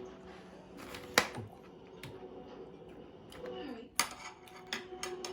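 Eating utensils clinking against a dish a few times, with one sharp clink about a second in and another about four seconds in.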